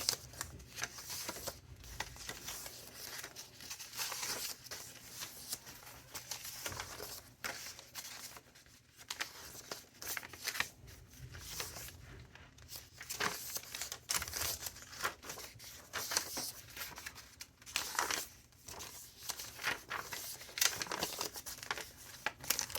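Thick handmade junk journal pages being turned and handled: irregular paper rustling and crinkling, with a page-turn swish every second or so.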